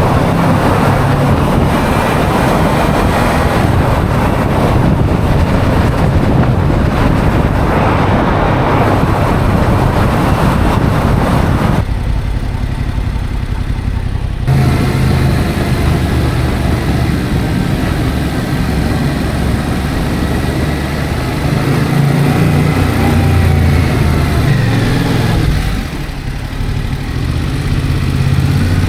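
Motorcycle riding at road speed: engine running under loud wind rush. The wind noise drops away for a couple of seconds near the middle, and later the engine's pitch rises and falls.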